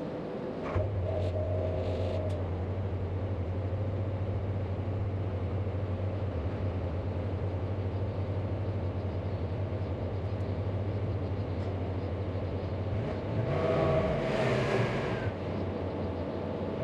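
A steady low mechanical hum, like an idling engine or motor, that starts abruptly about a second in, with a louder swell near the end.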